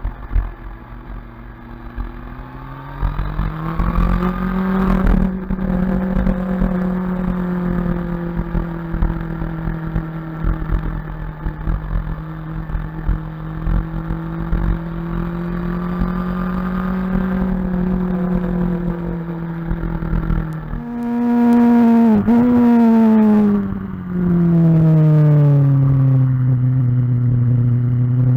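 BMW S1000RR inline-four sport bike engine running under way on stock slip-on exhaust, the note climbing about three seconds in and then holding steady. Around twenty-one seconds it gets louder with a quick dip in pitch, then the revs fall and climb again near the end, over a low buffeting rumble.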